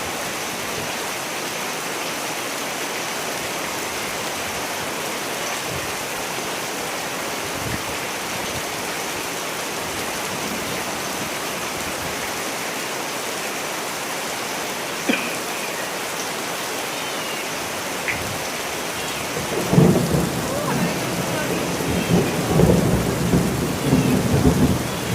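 Steady heavy rain, with a couple of sharp drips or ticks. About twenty seconds in, a low rumble of thunder rolls in and keeps going.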